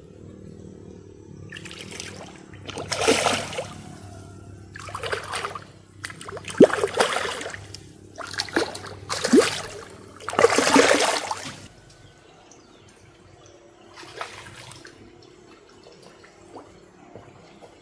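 Water splashing in a series of short, separate bursts over a low, steady trickle, quieter after the last few bursts.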